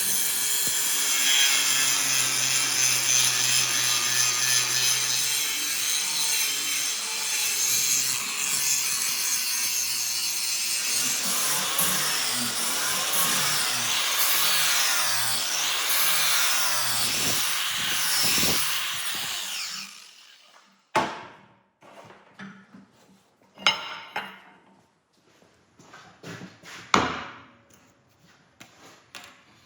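Power grinder grinding a forged Damascus steel knife blade: a steady rasping noise over a motor hum for about twenty seconds, then it stops. A few sharp knocks follow.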